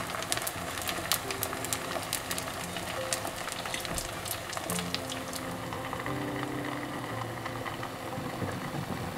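Background music with slow held notes, over the crackling sizzle of a scallion pancake and egg frying in oil in a pan; the crackles are dense at first and thin out a little past halfway.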